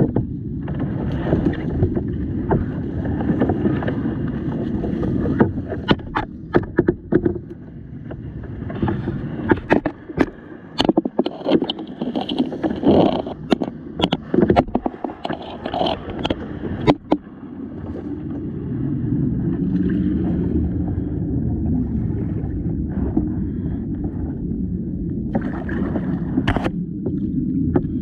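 Kayak being paddled: paddle strokes splashing and knocking against the boat, with a cluster of sharp knocks and splashes in the middle, over a steady low rumble.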